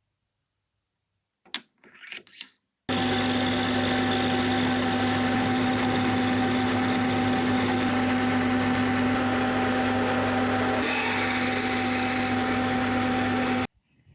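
An electric power tool or machine tool running at a constant speed with a steady hum, after a few light clicks; it starts and stops abruptly.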